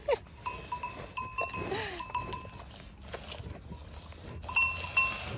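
Goats or sheep calling, with bells clanking over and over.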